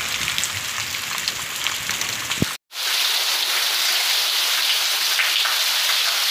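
Heavy rain falling, a steady hiss of downpour. The sound breaks off for a moment about two and a half seconds in, then continues as rain pouring off a clay-tile roof onto concrete and brick.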